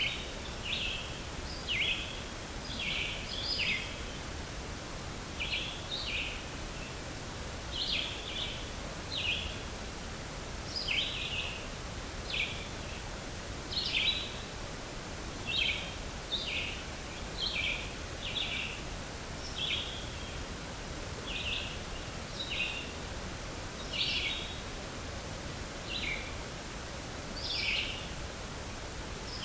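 A bird calling in short, high chirps, roughly one a second at an uneven pace, over a steady outdoor background hiss.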